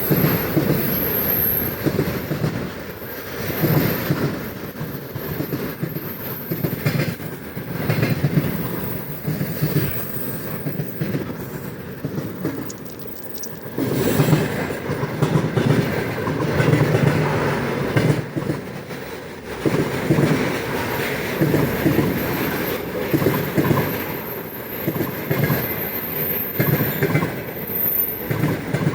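Container freight train rolling past, its wheels clattering over the rail joints in an uneven, continual rhythm.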